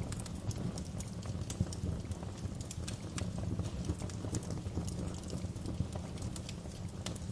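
Fireplace fire crackling: irregular sharp pops and snaps, several a second, over a low steady rumble of the burning fire.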